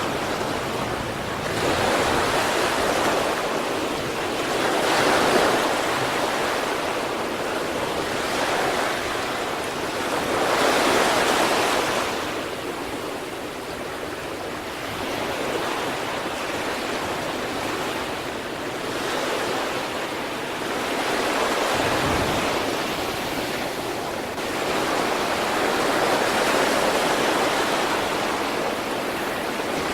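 Sea waves breaking and washing on the shore, a continuous surf hiss that swells and fades in slow surges every several seconds.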